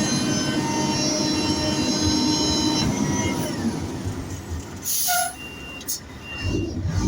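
A heavy vehicle running with a low rumble and several high, thin metallic squeals over it. The squeals fade about three seconds in, a short hiss comes about five seconds in, and the rumble swells again near the end.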